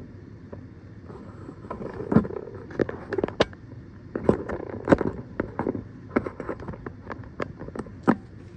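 Irregular clicks, knocks and light rattles of tools and parts being handled during hand work on a car's steering wheel and column.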